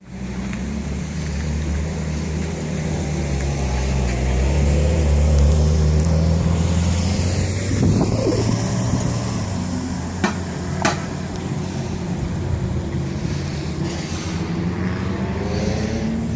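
An engine running steadily, its pitch and loudness swelling slightly and easing back, with two sharp clicks about ten seconds in.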